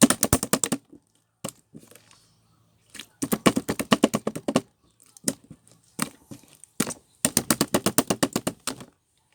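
Rapid runs of sharp clicks or taps, about ten a second, in three bursts with a few single clicks between.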